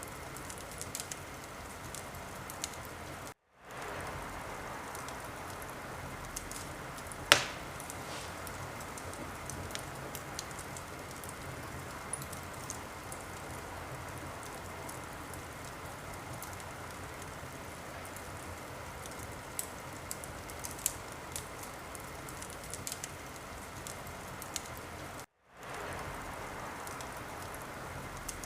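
Wood fire crackling in a fireplace: a steady hiss of burning with scattered small crackles and one loud sharp pop about seven seconds in. Twice the sound cuts out for a moment and fades back in.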